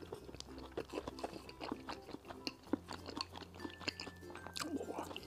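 A person chewing a mouthful of boiled dumplings dressed in sesame-paste sauce, with a run of many small quick mouth and teeth clicks.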